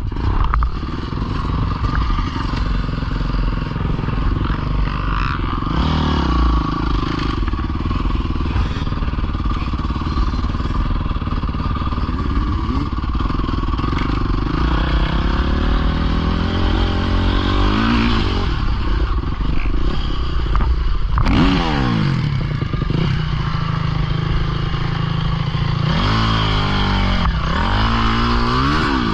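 Dirt bike engine running and revving up and down repeatedly, its pitch rising and falling with the throttle, with quick swoops a little past the middle and again near the end.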